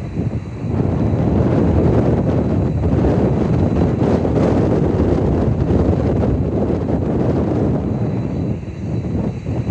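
Jet engines of a Boeing 767-300 freighter during takeoff, a loud steady rumble that eases slightly near the end.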